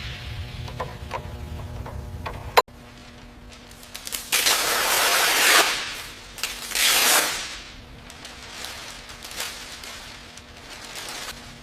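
A few sharp mechanical clicks over a low hum. Then the sound changes abruptly to two long, rushing spray hisses, about four and six and a half seconds in.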